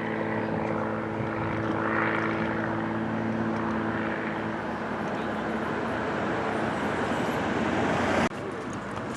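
Propeller airplane engine droning steadily, a low hum with a noisy rush over it. The hum fades about halfway through while the rush goes on, then the sound drops away abruptly near the end.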